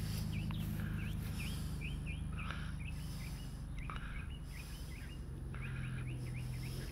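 An engine running steadily, a low even hum, while a bird chirps over it in a fast repeated series of short calls, about three a second.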